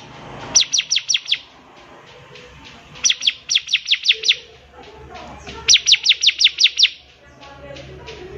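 Bar-winged prinia (ciblek) singing: three bursts of rapid, quickly falling high notes, each burst about a second long with six to ten notes, a few seconds apart.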